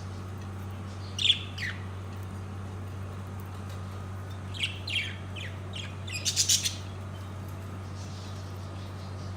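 Parakeets chirping in short, falling calls: a couple about a second in, then a cluster past the middle ending in a quick run of chirps. A steady low hum runs underneath.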